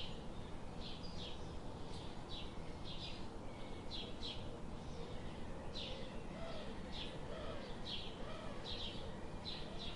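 Birds chirping: short, high calls repeating about once or twice a second over a steady background hiss, with a few lower, wavering notes in the second half.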